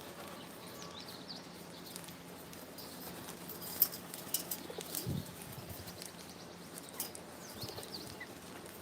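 Birds flapping their wings, with a flurry of sharp taps and flutters about four to five seconds in and faint high chirps.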